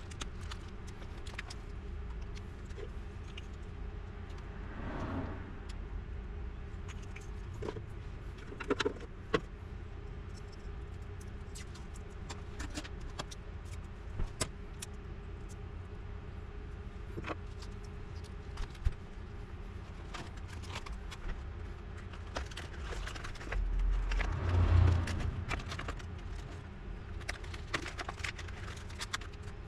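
Scattered metallic clicks and jingling from small parts and tools being handled, over a steady low hum, with a louder low rumble about 24 seconds in.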